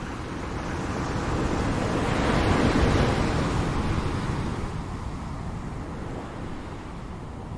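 Ocean waves breaking on a shore: one wave swells up, peaks about three seconds in, and washes back down into a steady surf hiss.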